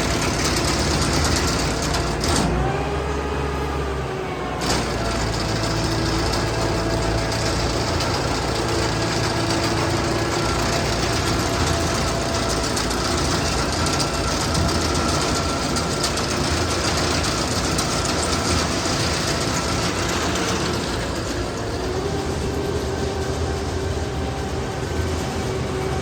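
Heavy farm machinery engine running steadily, with a brief dip and rise in pitch a few seconds in.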